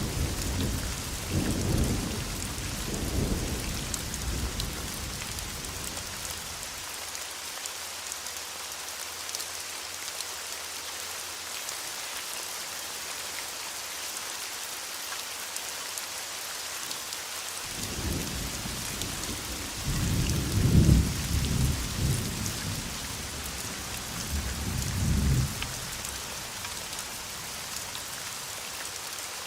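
Steady heavy rain with rolling thunder: a rumble dies away over the first few seconds, and a second roll of thunder breaks in a little past halfway, swells and fades out again before the end.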